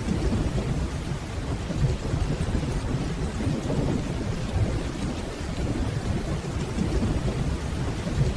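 Steady rainfall under a continuous low rumble of distant thunder.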